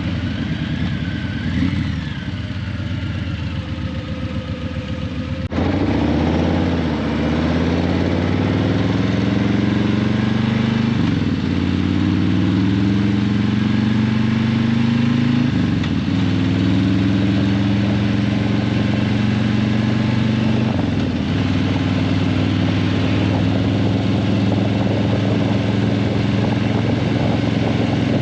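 Harley-Davidson Breakout 117's Milwaukee-Eight 117 V-twin through Vance & Hines Eliminator 300 slip-on mufflers, running low and steady at first, then suddenly louder about five seconds in. The engine pitch climbs and drops three times as the bike accelerates and shifts up through the gears, then holds steady at cruising speed.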